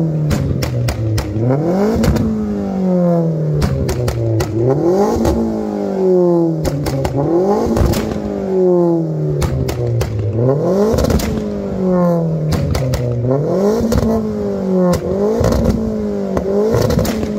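Tuned Vauxhall Astra hatchback revved hard over and over while standing still, about one blip every two seconds, each rising quickly and sinking slowly back, with sharp pops and crackles from the exhaust as the revs fall.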